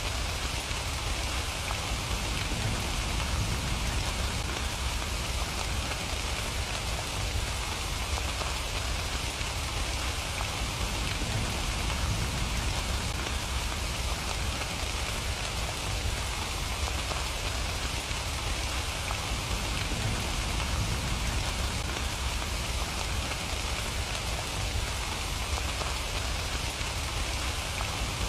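Steady rain falling and pattering on surfaces, an even hiss of drops with a low rumble underneath.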